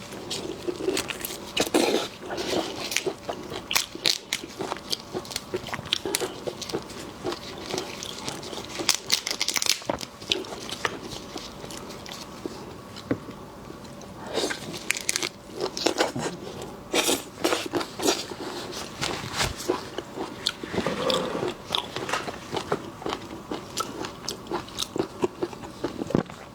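Close-miked eating of shellfish: irregular crunching and crackling with chewing, the shells being bitten and broken.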